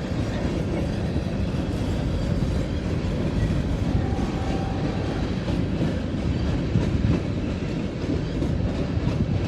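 Freight train cars rolling past close by: a steady rumble and clatter of steel wheels on the rails.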